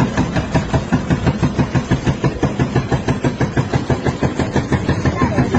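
Excavator-mounted hydraulic breaker hammering into the stone of a bridge: a rapid, even train of blows, several a second, over the machine's running engine.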